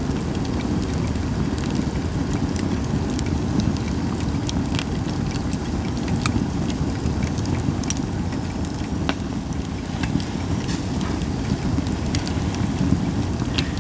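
Japanese white pine firewood burning, with irregular sharp crackles and pops over a steady low rumble.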